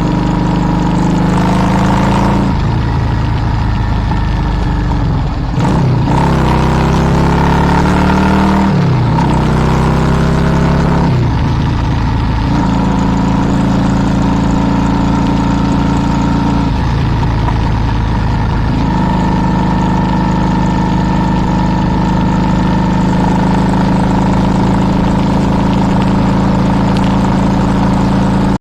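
A vehicle's engine pulling away and accelerating through the gears, its pitch rising and dropping back with each shift, then running at a steady cruising speed with one brief easing off and pick-up.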